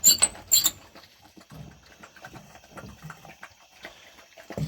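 Hunting hounds lapping water from their bowls in a run of small irregular clicks, after two sharp louder sounds in the first second.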